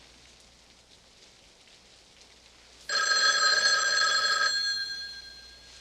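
A telephone's bell rings once, starting suddenly about three seconds in. It is a loud metallic ring about a second and a half long that then dies away.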